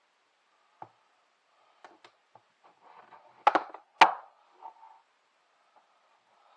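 Light clicks and knocks of batteries and a small battery light being handled and fitted, with two sharper knocks about three and a half and four seconds in.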